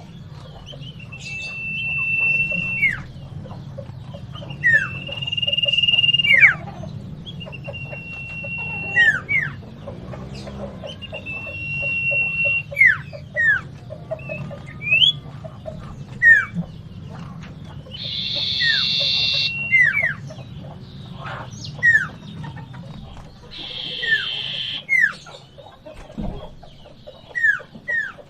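Iora (cipoh) singing an agitated fighting song: long steady whistles, each ending in quick downward-slurred notes, repeated every two to three seconds. In the second half, harsh rasping bursts of chatter break in.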